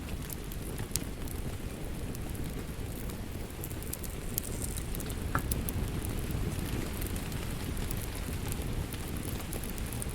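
Wood fire crackling in a fireplace: a steady low rumble of flames with scattered sharp pops and snaps, one standing out about a second in.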